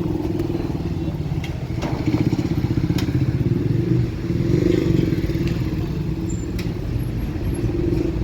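A motor vehicle engine running steadily with a fast even pulse, with a few faint clicks over it.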